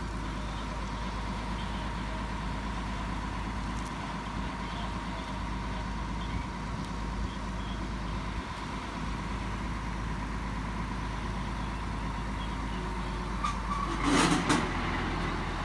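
Truck engine running steadily with a constant high whine. About fourteen seconds in comes a louder cluster of knocks and rushing noise.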